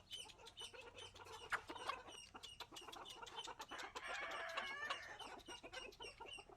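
Chickens clucking: a quick run of short calls, with a longer, louder call about four seconds in.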